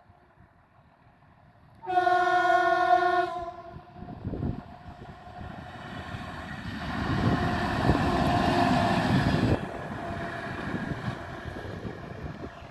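Train horn sounding one held blast of about a second and a half, followed by a train rumbling past, building up, loudest for a few seconds, then dropping off suddenly and running on more quietly.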